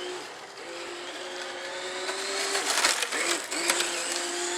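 Homemade engine-sound device on an electric Tamiya TT-01 RC car, a small electric motor buzzing against an empty can to imitate an engine. It makes a steady buzzing drone that briefly dips and picks up again twice, with a few short noisy bursts past the middle.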